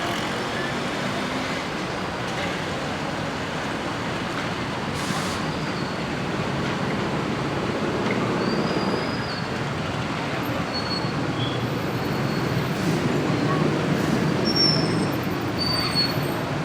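Scania K94 bus engine (310 hp) running as the bus manoeuvres at low speed, a steady low drone that grows louder over the last few seconds.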